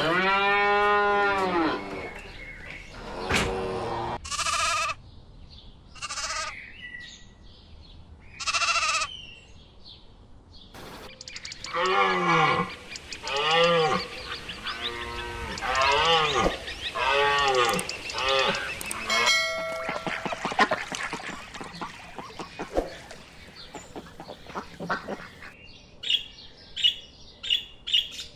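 A string of different animal calls: a long call at the start, a run of repeated calls in the middle, then quick repeated bird chirps near the end.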